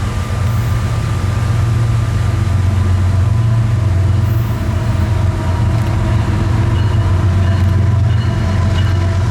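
Diesel locomotives leading a freight train, running with a deep, steady engine rumble, with thin steady tones coming up faintly in the second half.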